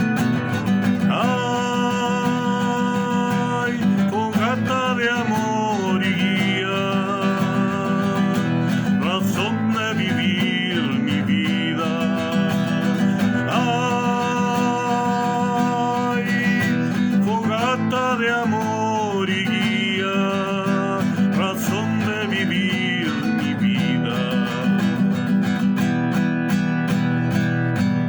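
Instrumental passage of a song: acoustic guitar accompaniment under a melodic lead line with sliding notes.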